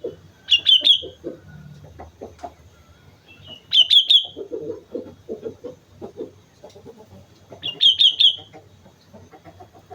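Sooty-headed bulbul (kutilang) singing three short bubbly phrases of quick notes, a few seconds apart, over a low rapid clucking in the background.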